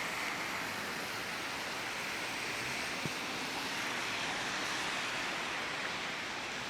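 Steady hiss of rain falling, with one small tick about three seconds in.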